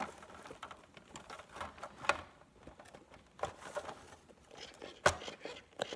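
Handling noise as the rubber skin of a Big Mouth Billy Bass is stretched and wrapped around its plastic body: irregular rustling and rubbing with small clicks, two sharper knocks about two seconds in and about five seconds in.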